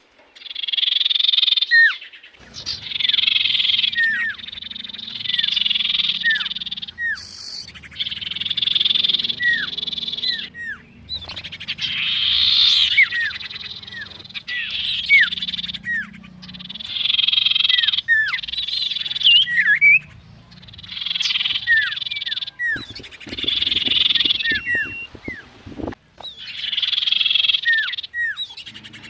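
Common iora (cipoh) singing over and over: bouts of rapid, rattling chatter about a second or two long, each laced with short, sharp down-slurred whistles, with brief pauses between bouts. A low rumble runs underneath, and there is a patch of crackling knocks about three-quarters of the way through.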